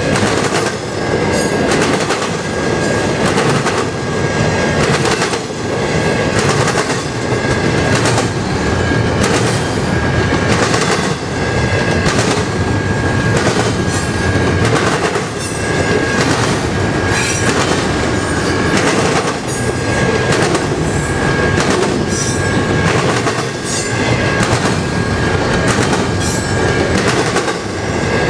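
Double-stack container freight train rolling past close by. The wheels click and clack irregularly over the rail joints and the crossing, and a thin high tone comes and goes above the steady rumble.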